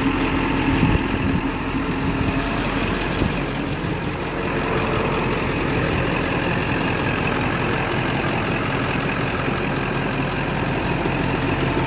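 1999 Ford F-450 crane truck's engine running steadily with the PTO-driven hydraulic pump engaged.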